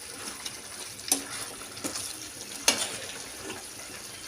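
Chicken gravy sizzling in a pan as a steady hiss, with a utensil knocking sharply against the pan three times, loudest about a second in and near three seconds.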